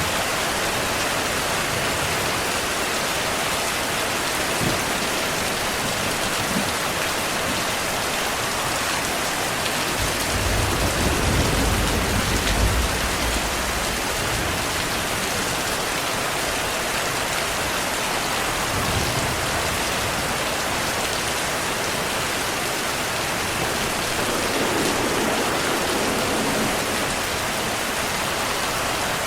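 Steady heavy rain, with a low rumble of distant thunder swelling about ten seconds in and fading over a few seconds.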